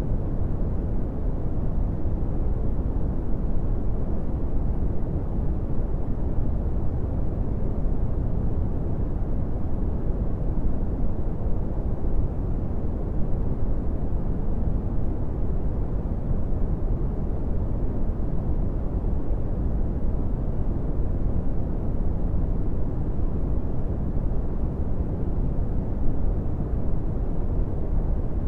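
Brown noise: a steady, even rumbling hiss with most of its energy in the low end and little above about 1 kHz, unchanging throughout.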